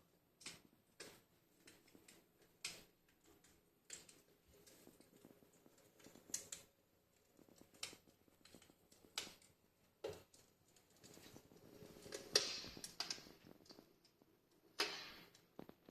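Wood fire crackling in a fireplace: faint, irregular sharp pops and snaps, with two short hissing flare-ups near the end.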